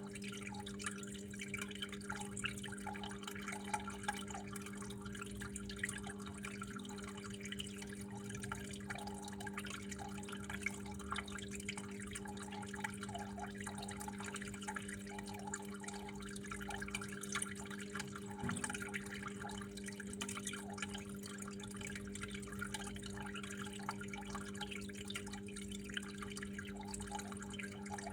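Water trickling and dripping, with many small irregular drips, over a steady low hum.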